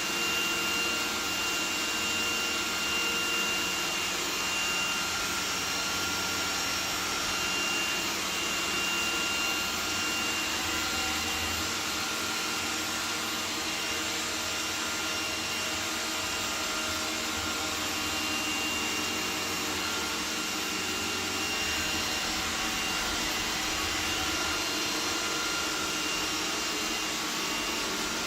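iRobot Roomba 980 robot vacuum running, a steady whir of its suction motor with a thin high whine held throughout.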